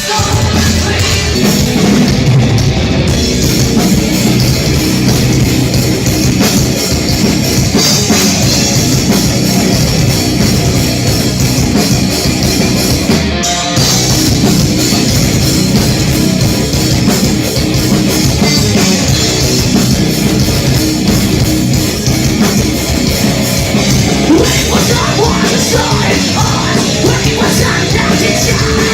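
Metal band playing live: distorted guitars and drum kit in a loud, dense wall of sound, with a momentary stop about halfway through.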